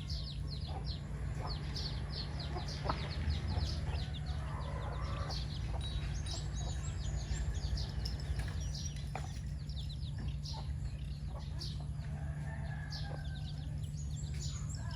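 Chickens calling: a rapid, continuous run of short high peeps with occasional lower clucks, over a steady low hum.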